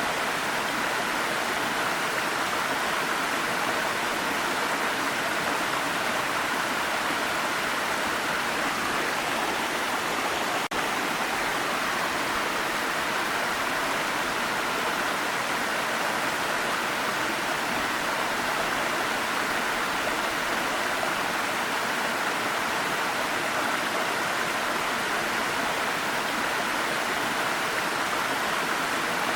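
Waterfall: a steady, even rush of falling water, with a momentary dropout about ten seconds in.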